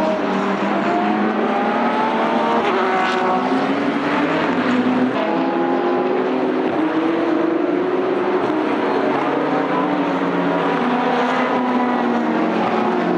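Several race car engines at speed on a road course, overlapping, their notes rising and falling as the cars accelerate, shift and brake through the corners.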